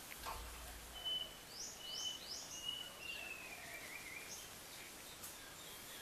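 Wild songbirds calling, faint: a thin high whistle held in a few notes that slide down into a wavering warble, with three quick rising chirps above it about a second and a half in. A brief low rumble comes near the start.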